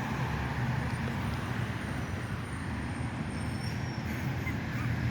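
Road traffic: a steady low rumble of vehicles going by on a nearby road.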